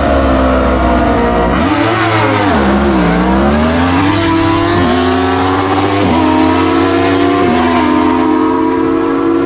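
Car engine accelerating hard through the gears. Its pitch climbs and drops back sharply at each of several upshifts.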